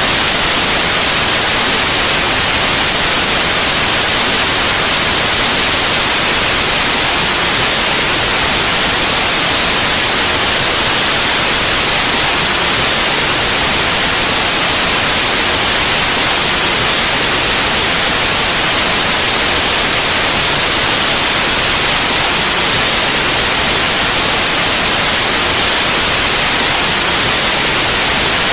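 White noise: a loud, steady hiss, strongest in the treble, that never changes.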